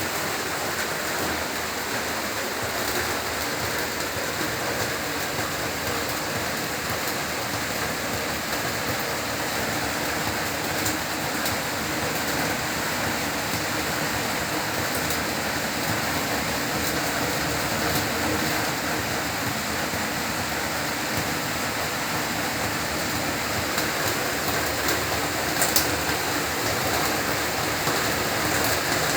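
Heavy rain falling steadily, with scattered sharper drop taps and a couple of louder ones near the end.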